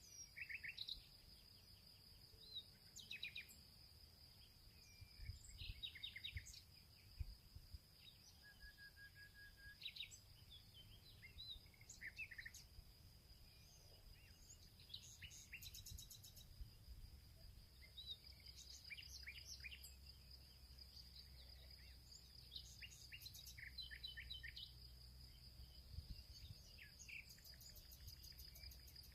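Faint field ambience: several small birds chirping and trilling in short scattered calls over a continuous high, thin insect drone, with a low rumble underneath.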